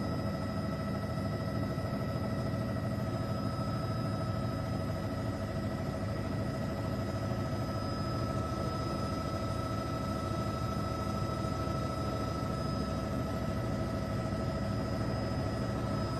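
Steady drone of an aircraft's engines heard from inside the cabin, a constant low rumble with several steady whining tones over it.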